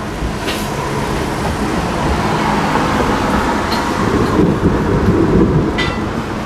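Rain falling steadily, with a low rumble of thunder that swells through the middle and fades near the end.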